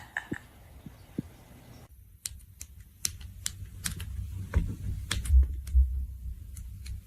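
A run of irregular sharp clicks, two or three a second, with low thumps and rumbling in the second half.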